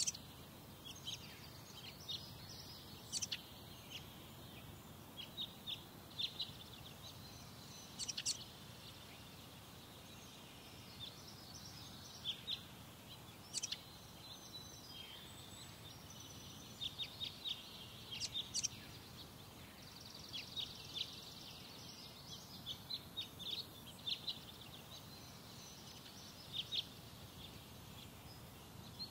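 Birds chirping: many short, high chirps come in scattered clusters throughout, with a few sharper, louder calls standing out, over a faint steady low background rumble.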